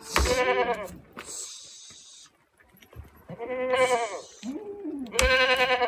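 Goats bleating three times, each call a loud, quavering cry, with a short hiss between the first two calls.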